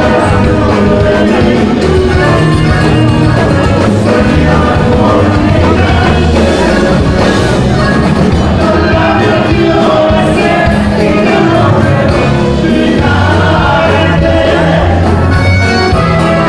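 Norteño band playing a song live, loud and steady, with singing.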